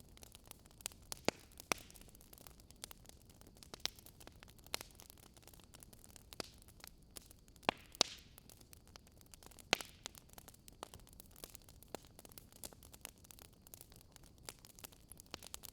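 Wood campfire crackling: irregular sharp pops and snaps over a faint steady hiss, with a few louder snaps about a second in and again around eight and ten seconds.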